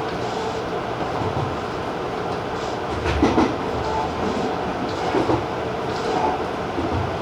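Tobu 50090-series electric train running at speed: a steady rumble of wheels on rail, with a few heavier thumps over rail joints, the loudest about three seconds in.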